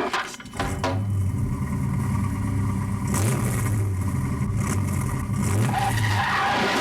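Cartoon sound effect of a car engine running with a steady low hum that rises briefly in pitch a couple of times, after a few clicks at the start.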